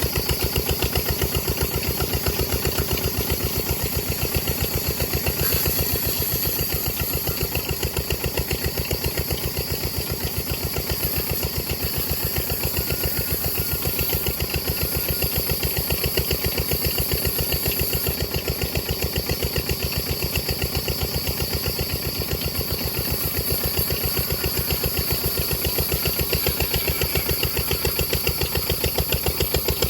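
Diesel engine running at a steady idle, its firing strokes making an even, rapid beat.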